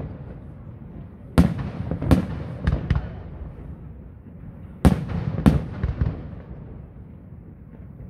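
Aerial firework shells bursting in sharp bangs, about five loud ones and a few weaker ones in two groups, the first starting about a second and a half in and the second near five seconds. Each bang has a fading rumbling tail.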